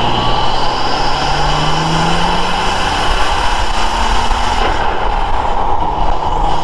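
2017 BMW M4 Competition's S55 twin-turbo inline-six, fitted with Eventuri intakes and resonated equal-length midpipes, driving at low speed on a front-mounted microphone. The engine note rises gently over the first couple of seconds, then holds a steady cruise under tyre and wind noise.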